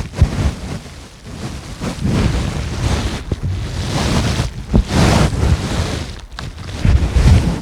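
Strong gusty wind, rushing and buffeting the microphone, swelling and easing in several surges.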